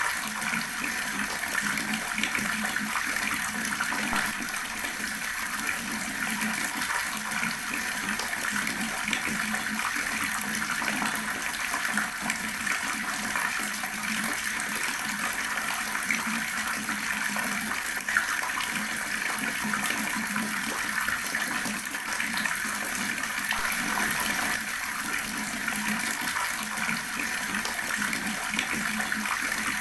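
Water running steadily from an outdoor tap, splashing continuously without a break.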